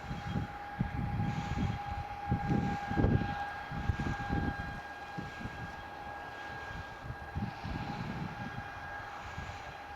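Gusts of wind buffeting the microphone over a steady high-pitched whine from the tractor-driven slurry tanker as it pumps slurry out over the hedge. The gusts are strongest in the first half.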